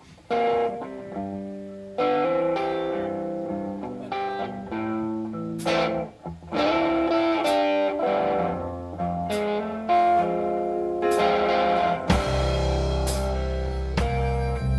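Live blues band playing an instrumental intro: guitar playing held notes, with sharp drum or cymbal hits about every two seconds, and a deep bass line coming in about twelve seconds in.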